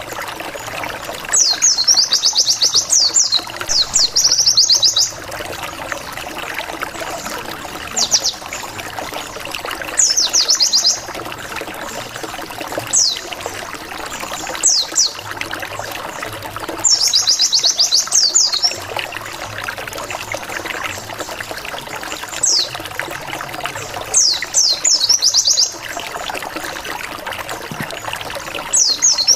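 Pleci white-eye singing a wild-type 'ngalas' lure song. It gives bursts about a second long of fast, high, dropping 'wit wit wit' notes, repeated several times with short pauses between, over a steady trickling hiss.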